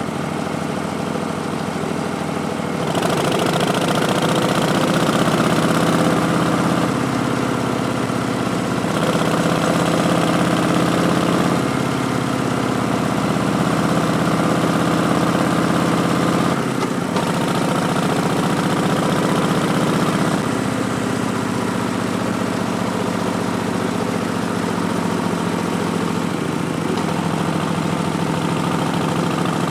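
Harley-Davidson Street Bob's Milwaukee-Eight V-twin running through Vance & Hines Twin Slash slip-on mufflers while riding, getting louder about three seconds in as the throttle opens, then changing engine pitch several times through the rest.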